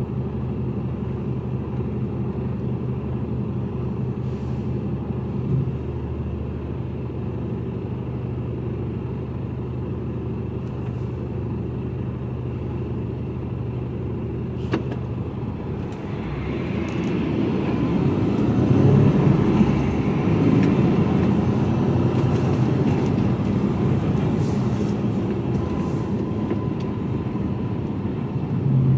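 Mercedes-Benz Actros lorry driving, its engine and road noise heard from inside the cab as a steady drone. About halfway through the engine note drops away and a louder rumble builds.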